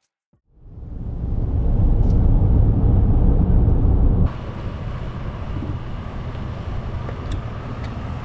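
Steady low rumbling noise, fading in, then dropping abruptly about four seconds in to a lighter, steady hiss.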